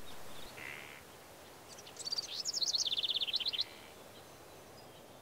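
A songbird singing one fast trill of many short, high repeated notes, about two seconds long and dropping slightly in pitch, over a faint steady outdoor background hiss.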